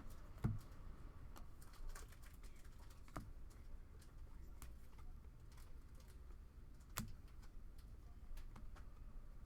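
Scattered light clicks and taps, a handful spread irregularly over several seconds, over a faint low hum.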